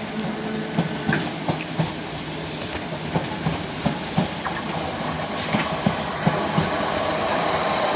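Southern Class 455 electric train running past, its wheels clicking over rail joints. From about five seconds in, a rising rush grows louder as a Gatwick Express Class 387 pair approaches.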